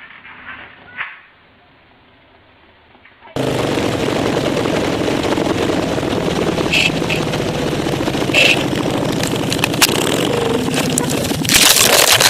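Motorcycle engine running loud and steady, starting abruptly about three seconds in, with a few sharp clicks and a loud, harsh burst of noise near the end.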